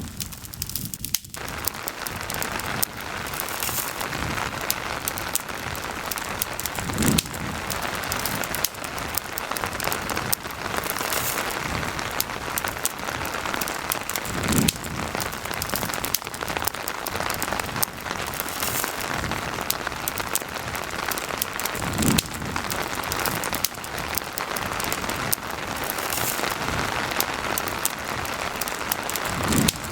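Steady rain hiss with campfire crackling, many small clicks over the rain. A short low thud comes back about every seven and a half seconds.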